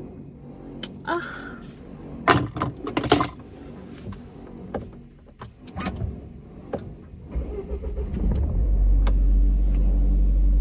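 A few sharp clicks and rattles inside a car, then about three-quarters of the way in the car's engine starts and settles into a steady low idle.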